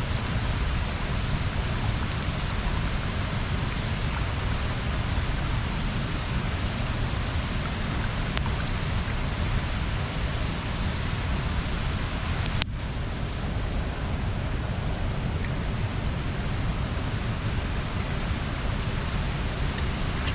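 Bonfire burning: a steady hiss with faint, scattered small crackles, briefly cutting out for an instant just past halfway.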